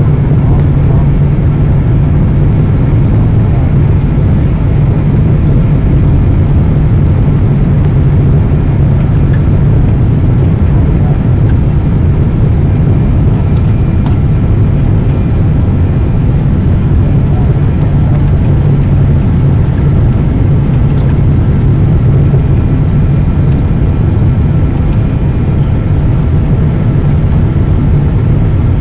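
Boeing 777-200 cabin noise heard from a window seat: a steady, loud low rumble of engines and airflow with faint steady whining tones, unchanging throughout.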